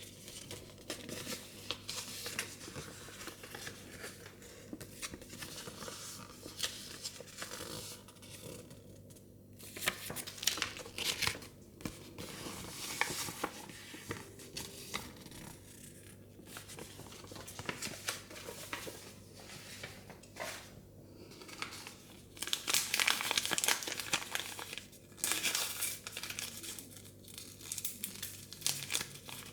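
Thin plastic wrapping being torn and crinkled by hand as a Mini Brands surprise ball is unwrapped, in irregular rustling bursts that are loudest a little past two thirds of the way in.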